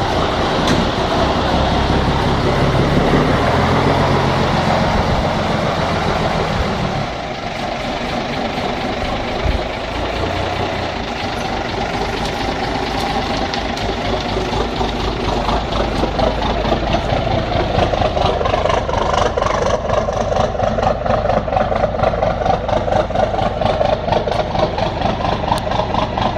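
Scania 76 truck's six-cylinder diesel engine running just after its first start in six months: it runs at raised revs for about seven seconds, then drops to a lower, evenly pulsing idle.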